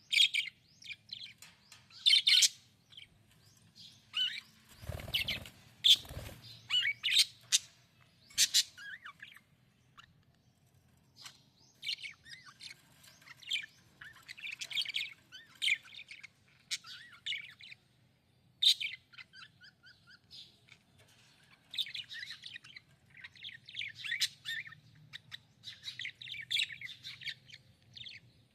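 Budgerigar chirping and warbling in quick clusters of high, short notes, pausing briefly now and then. Two brief thumps come about five and six seconds in.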